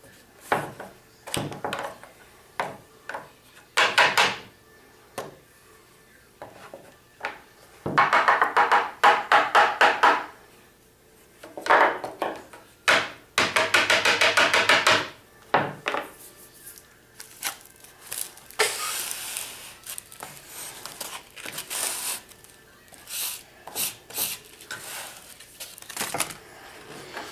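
Dust collector of a Bosch orbital sander being taken off, opened and emptied by hand: scattered clicks and knocks, two bursts of rapid tapping to knock the dust out, and a stretch of rustling and scraping as the sanding dust is shaken and poured out.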